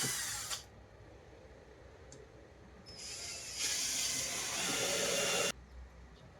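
Power drill running in two bursts while working pallet wood: a brief one at the start, then a longer run of about two and a half seconds that gets louder partway and stops suddenly.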